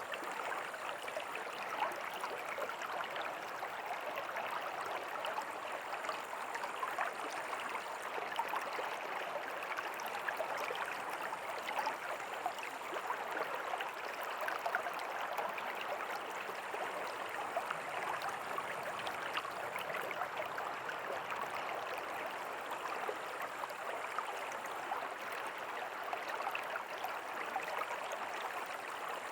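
River water flowing, a steady, even rush with no pauses or changes.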